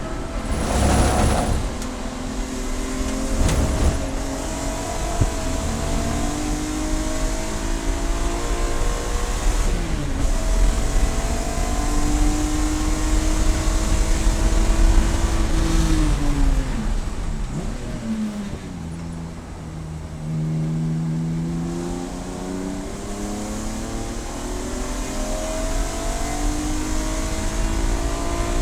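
Race car engine pulling hard with its pitch climbing, then stepping down as the car slows and downshifts about two-thirds of the way through, before pulling up through the revs again. Two short, loud noisy bursts in the first few seconds.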